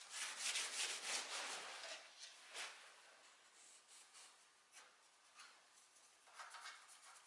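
Hand strokes rubbing over a wooden surface, as in hand sanding during furniture refinishing. A quick flurry of strokes comes in the first two seconds, then a few single strokes, one about 2.5 seconds in and a short run near the end.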